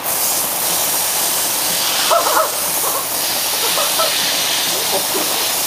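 Heavy rain hissing steadily, with a few faint distant voices in the background.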